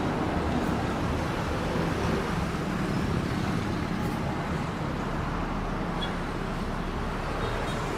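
Steady road traffic noise: motor vehicles running alongside on the road, with the low hum of an engine strongest in the first few seconds.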